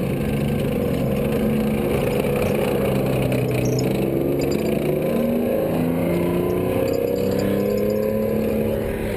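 Military armoured personnel carrier with a Rolls-Royce multi-fuel engine driving past, its engine running steadily with a note that shifts in pitch every second or so over a rough low rumble.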